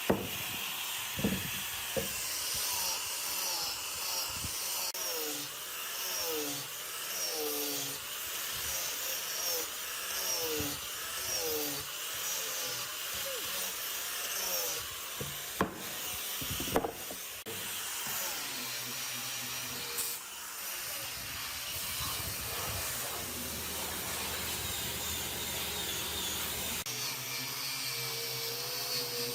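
Hand work on wood: a tool or abrasive rubbed back and forth over wood in repeated strokes, about one a second, with a few sharp knocks. It settles into a steadier rubbing noise after about eighteen seconds.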